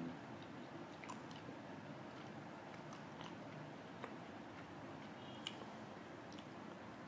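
Faint chewing of a mouthful of pizza, with scattered small wet mouth clicks.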